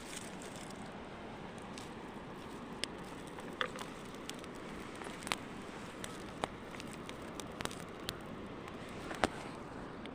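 Campfire crackling: irregular sharp pops of burning wood over a steady low hiss.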